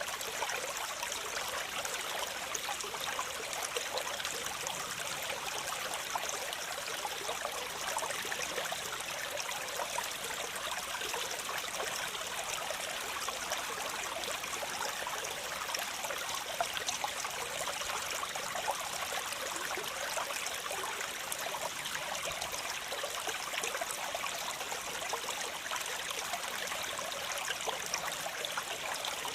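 Waterfall: water falling and splashing in a steady rush, mostly a bright hiss with fine splashing detail and little deep rumble.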